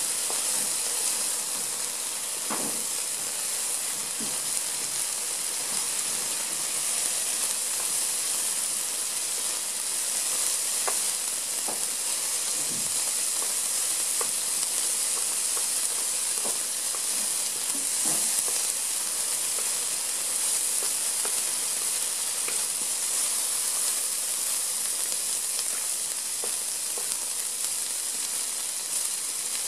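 Sliced deer tongue and asparagus sizzling as they stir-fry in a hot pan: a steady hiss, with a few light ticks as chopsticks turn the food.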